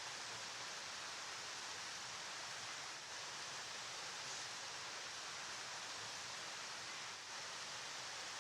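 River water flowing, a steady rushing hiss with no breaks.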